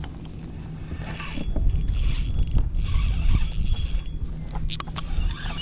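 Fishing gear being handled as a fish takes the bait: scraping and mechanical clicking from the rod and reel, with a few sharp clicks near the end, over a low rumble of wind on the microphone.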